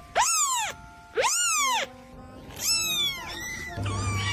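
Kitten meowing three times, each a short, high call that rises and then falls in pitch.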